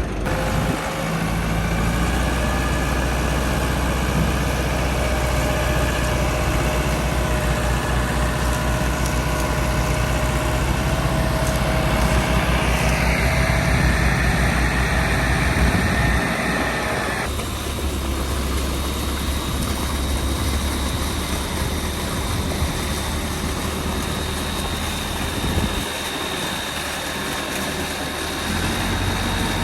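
Tractor diesel engine running steadily with a low hum and a thin high whine; the sound changes abruptly about seventeen seconds in.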